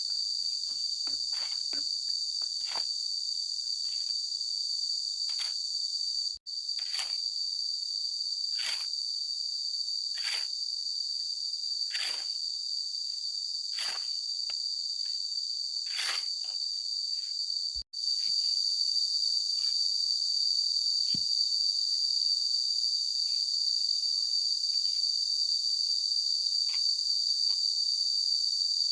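Steady high-pitched buzzing of an insect chorus, with a series of sharp knocks about every second and a half to two seconds through the middle stretch. The buzz drops out twice for an instant.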